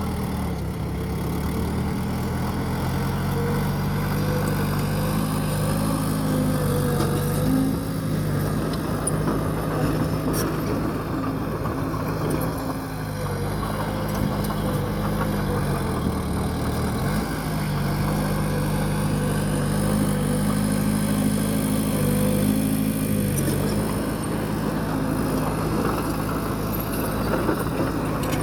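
Bulldozer's diesel engine running continuously, its pitch stepping up and down several times as the load on it changes, with a deeper dip about halfway through.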